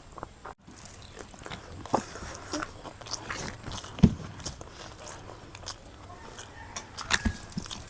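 Close-miked chewing and mouth sounds of a person eating, with many small smacks and clicks, and two louder thumps about four and seven seconds in.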